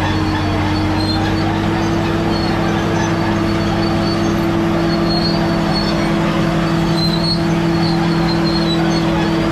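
Caterpillar D7G bulldozer's diesel engine running steadily under load, a constant drone with the rumble of the working machine.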